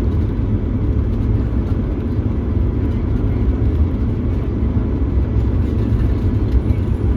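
Steady low engine rumble, even throughout, with no sudden events.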